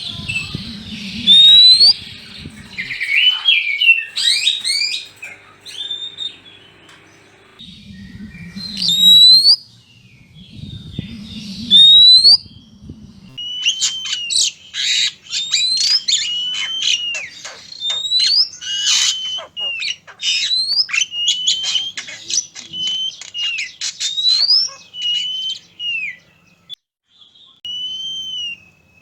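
Oriental magpie-robins (kacer) calling: many short whistled notes that swoop up and down, then a fast run of harsh, clicking chatter through the middle, with a low rumbling noise underneath near the start and again about a third of the way in.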